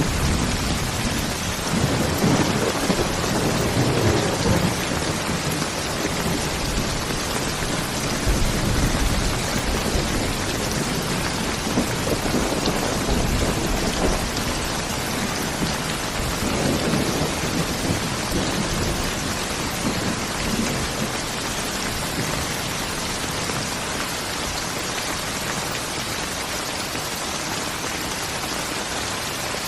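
Steady heavy rain falling, with low rolls of thunder rumbling in several waves through the first two-thirds, fading out toward the end.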